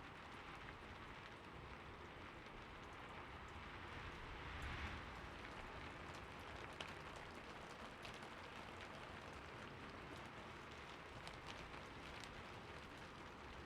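Faint, steady light rain: a soft even hiss with scattered sharp ticks of single drops, swelling briefly about five seconds in.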